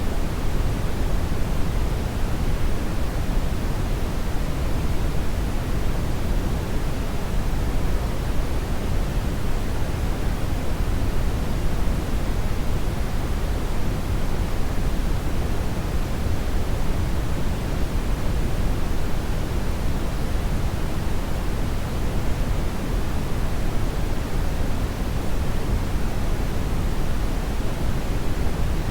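Hair dryer running continuously: a steady, unchanging rush of blown air with no breaks or changes in speed.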